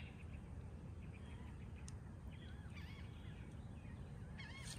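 Faint outdoor ambience: distant birds singing in short warbling phrases over a low, steady background rumble.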